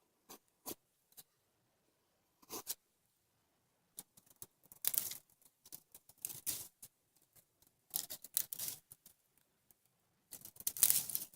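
Dry twigs being gathered and snapped by hand: short, scattered bursts of cracking and rustling with pauses between them, coming more often in the second half.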